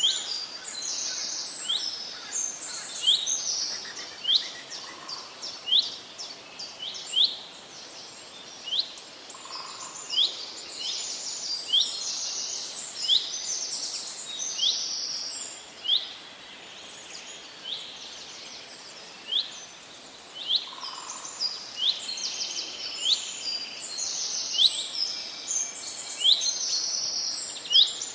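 Birds chirping: many short, high, sharp notes repeated throughout, often several a second, over faint outdoor background noise.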